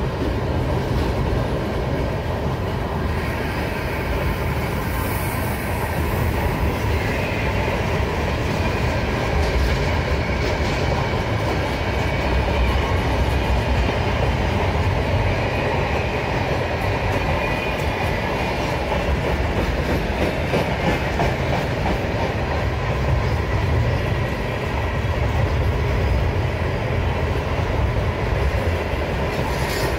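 Container wagons of a long freight train rolling past at close range: a steady rumble of steel wheels on the rails, with a continual clicking as the wheels cross rail joints.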